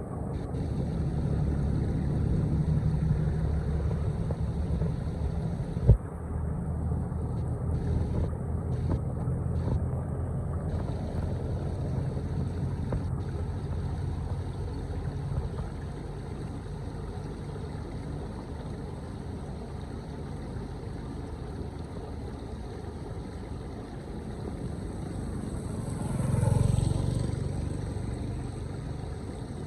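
Floodwater rushing and draining into a street storm drain, a steady low rumble with wind buffeting the microphone. There is a single sharp knock about six seconds in, and the sound swells briefly near the end.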